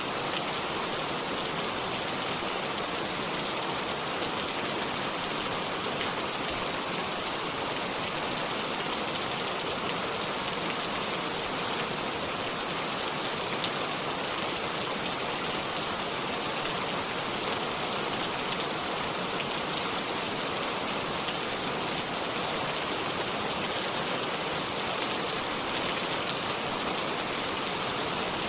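Steady rainfall, a dense even hiss of drops with the odd sharper drip standing out.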